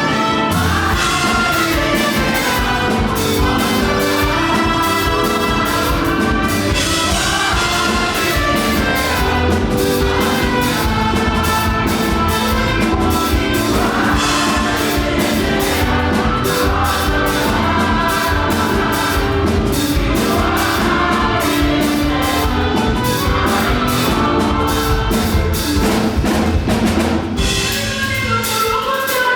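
Live gospel praise-break music: a drum kit keeps a fast, driving beat under singing and instruments, with a brief drop in the music near the end.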